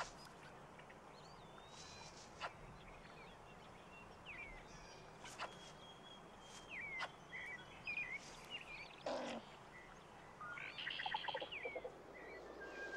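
Faint woodland birds chirping in scattered short calls, with a few sharp clicks and a quick run of notes near the end.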